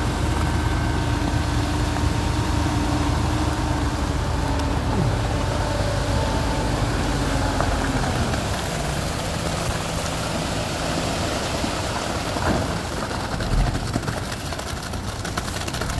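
An engine running steadily. About eight seconds in its pitch falls and settles lower, as the revs drop back.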